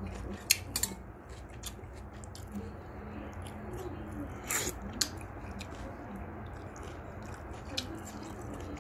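Close-up chewing and mouth sounds of a person eating a cube of pickled radish, over a faint low hum, with a few sharp clicks scattered through.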